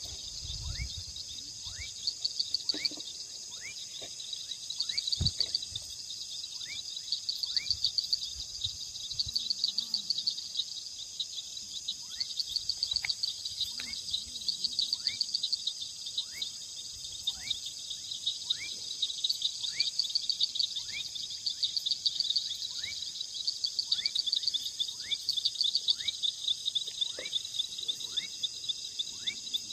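Outdoor chorus of insects such as crickets: a steady, pulsing high trill. A short rising chirp repeats about once a second, with a few low knocks in the first seconds.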